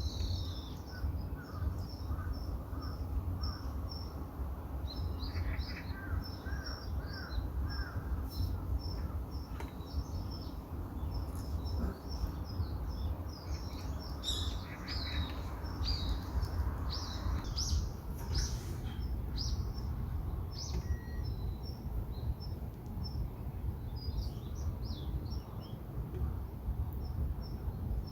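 Many birds chirping and calling in quick, short, repeated notes throughout, over a steady low rumble.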